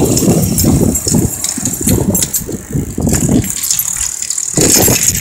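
Uneven rumble of riding a bicycle near road traffic: wind buffeting the microphone and the bike rattling, with vehicles close by.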